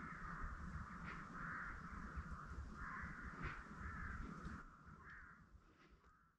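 Outdoor woodland ambience: repeated harsh bird calls over a low rumble, fading out over the last two seconds.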